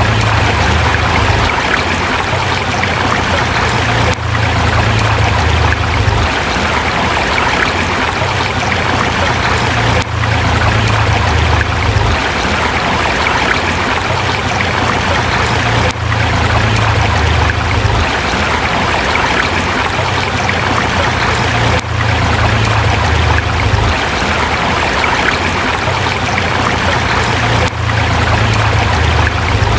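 Steady rushing of a river flowing over rocks, with a low rumble underneath that swells and drops away about every six seconds.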